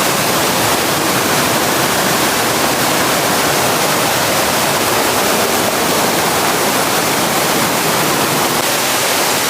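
Mountain river rushing, a loud, steady, unbroken wash of water noise that cuts in suddenly.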